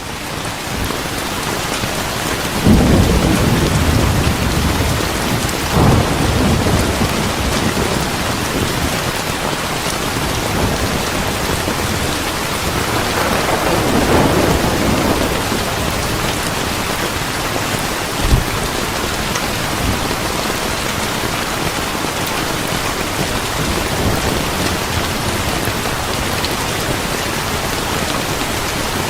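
Steady heavy rain with rolls of thunder: a low rumble swells about three seconds in, another around six seconds, and a longer roll around thirteen to fifteen seconds. A single short, sharp pop comes about eighteen seconds in.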